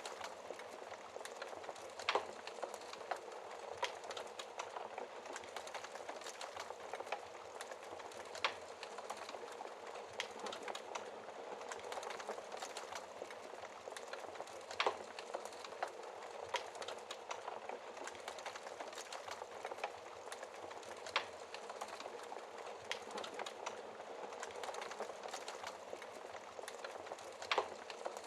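Wood fire burning in a fireplace, crackling: a steady hiss full of small snaps, with a few louder pops spread through it.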